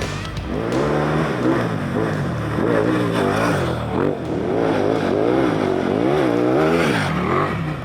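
Motorcycle engine revving up and down under riding load, its pitch rising and falling over and over, about once a second.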